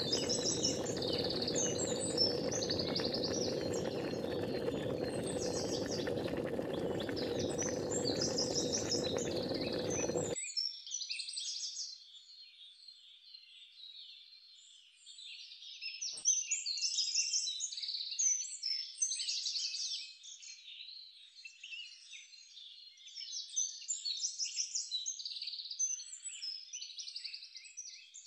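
Many small birds chirping and twittering densely together. For the first ten seconds or so a steady noise with a low hum sits underneath, then cuts off suddenly, leaving only the chirps.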